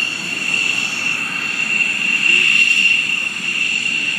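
F-16 fighter jet engine running at high power: a steady high whine over a rushing noise.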